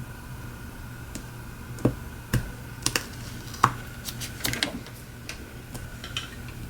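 Irregular light clicks and taps, a dozen or so, over a steady hum with faint constant tones.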